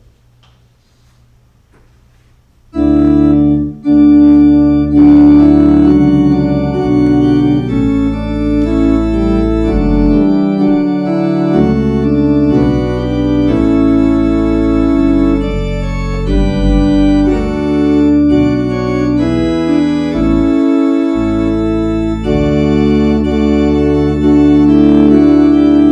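Organ playing offertory music: slow, held chords that start abruptly about three seconds in, after a short near-silence.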